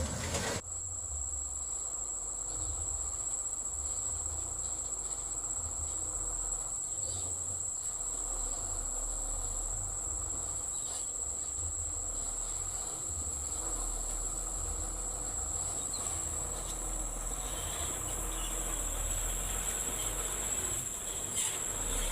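Steady, high-pitched drone of crickets or similar insects over a low, uneven rumble, after louder vehicle noise cuts off about half a second in.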